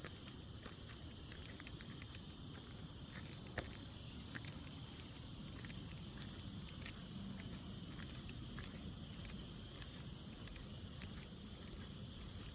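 High-pitched insect chorus buzzing in long pulses over a low outdoor rumble, with scattered faint clicks and one sharper click about three and a half seconds in.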